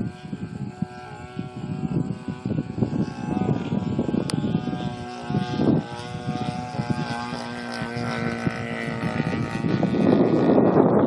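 ESM P-51 Mustang model's DLE 30 single-cylinder two-stroke gas engine with a Keleo exhaust, running steadily in flight, its pitch dropping a little about six seconds in. Wind buffets the microphone, louder near the end.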